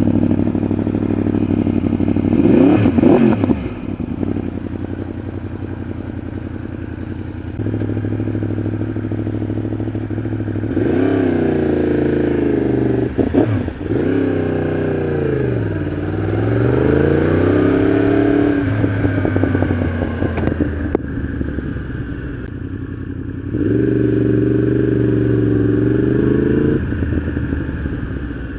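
Yamaha R1 inline-four with a full exhaust system idling and being revved: a quick blip about three seconds in, several revs between about eleven and nineteen seconds, and a higher rev held for about three seconds near the end before it drops back to idle.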